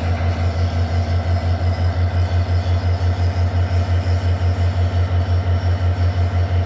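EMD two-stroke diesel locomotive engine idling with a steady, low, pulsing throb of about five beats a second.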